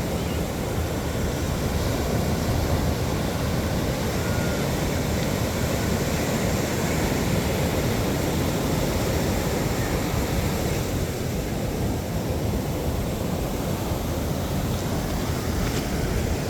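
Steady wind rumble buffeting a phone's microphone, with ocean surf washing behind it.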